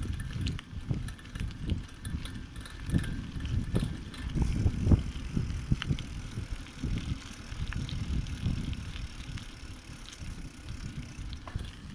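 Bicycle being ridden over rough ground: an uneven low rumble from the tyres and bumps, with scattered clicks and rattles from the bike.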